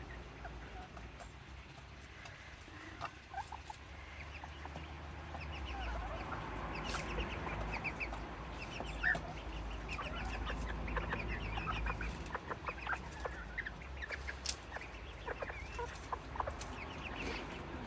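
Serama bantam chickens clucking: many short, quick clucks and chirps that come thicker from about six seconds in.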